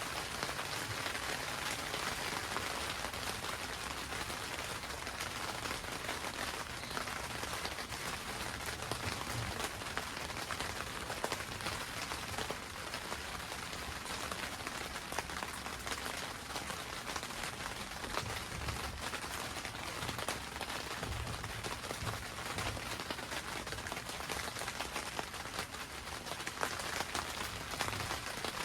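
Steady rain falling on a greenhouse roof, heard from inside: a dense, even patter with many separate drops ticking sharply on the covering, and a few soft low thuds.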